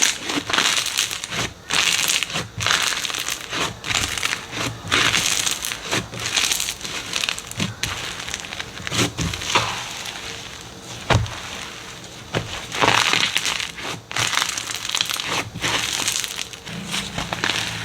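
Slime being squeezed and pressed, giving irregular bursts of crackling and crunching about once a second.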